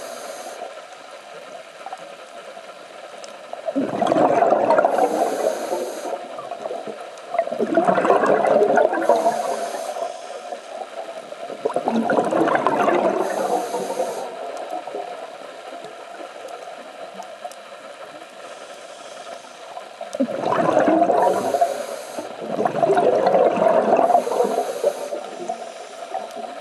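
Scuba diver breathing through a regulator underwater: five loud gurgling rushes of exhaled bubbles, each about two seconds long, with a pause of several seconds in the middle and short high hisses of the regulator between breaths.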